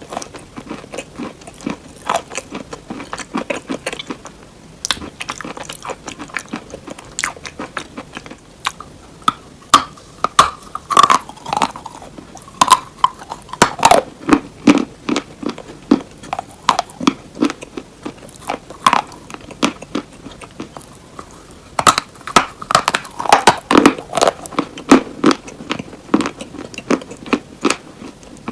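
Crunchy hard cheese being bitten and chewed close to the microphone: a dense, irregular run of sharp crunches and crackles, loudest in two spells around the middle and again in the last third.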